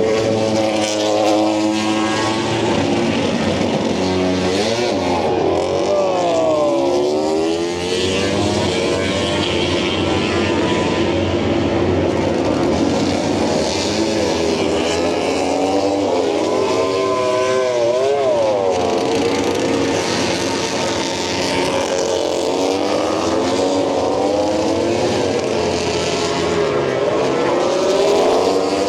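Several MotoGP race motorcycles revving hard and accelerating away one after another on practice starts. Their engine notes keep sweeping up and down in pitch and overlap as bike after bike goes past.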